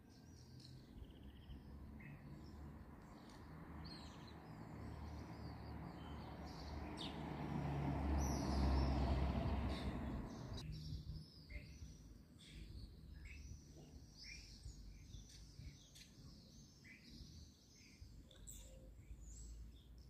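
Small birds chirping and twittering throughout. A rushing noise swells over several seconds to be the loudest sound about halfway through, then cuts off abruptly.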